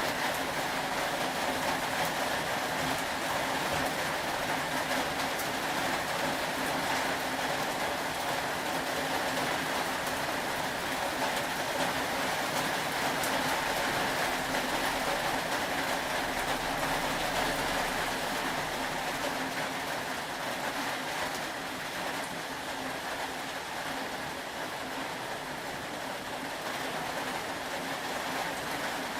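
Steady rain falling, an even hiss with faint scattered patter that eases slightly about two-thirds of the way through.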